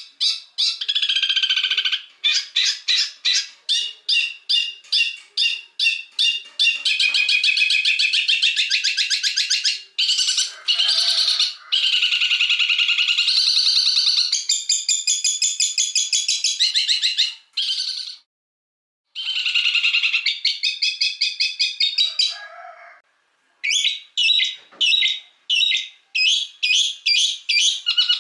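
A spliced mix of cage-bird songs: fast, high-pitched chattering trills and rapid runs of repeated notes, one phrase straight after another. It breaks off abruptly about eighteen seconds in and again about twenty-three seconds in.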